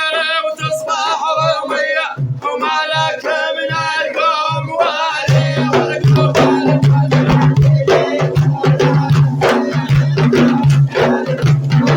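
A man singing a melismatic Arabic praise song with heavy vibrato. About five seconds in, a dense hand-drum and percussion rhythm comes in and carries on.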